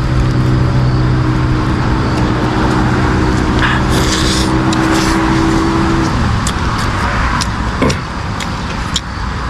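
A motor vehicle engine running steadily close by, fading out about six seconds in, with scattered light clicks and taps over it.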